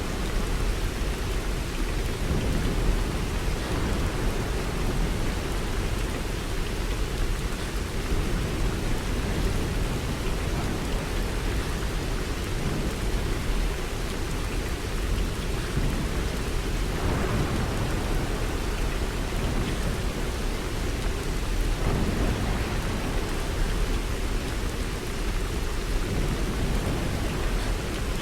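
Steady rain falling, an even, unbroken hiss with a deep low rumble underneath.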